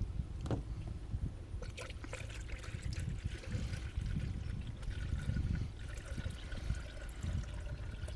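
Engine coolant trickling and gurgling in a Jeep Wrangler JK's cooling system as it is filled and bled of air after a water pump replacement.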